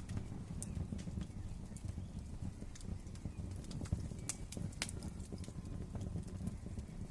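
Wood fire crackling in a fireplace: a steady low rumble of burning logs under irregular sharp pops and snaps, the loudest snaps about four and five seconds in.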